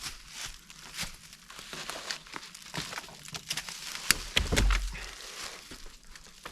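Irregular rustling and crunching, with a cluster of sharp snaps about four seconds in and a dull thump right after.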